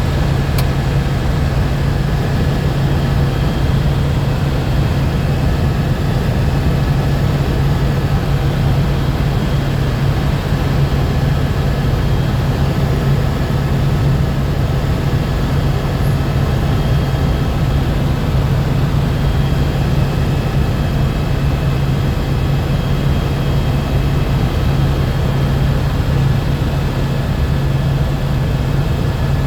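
Helicopter in flight: a steady, loud rotor and engine drone with a deep hum and faint high whining tones, unchanging throughout.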